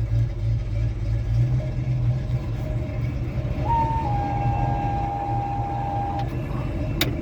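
Old Ford Mustang's engine running steadily shortly after its first cold start of the day. A thin steady tone sounds for a couple of seconds midway, and a sharp click comes near the end.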